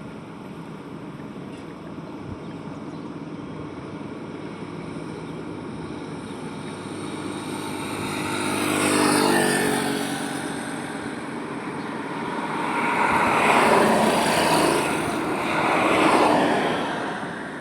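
Highway traffic: a steady hum of road noise, with a vehicle passing close by about halfway through, its engine's hum audible, then two more passing in quick succession near the end.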